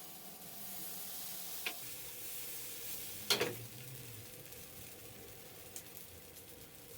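Food frying in oil in a pan, with a steady sizzle. A utensil knocks against the pan twice, the second knock the louder.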